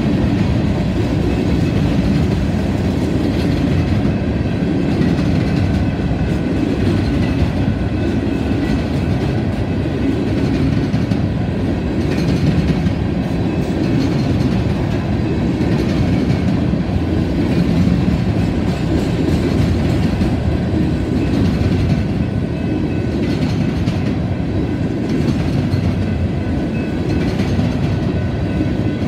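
Union Pacific grain train's covered hopper cars rolling past, their steel wheels on the rails making a steady, continuous rumble.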